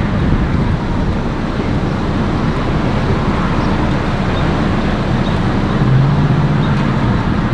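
Steady low rumbling noise, with a low droning tone coming in briefly about six seconds in.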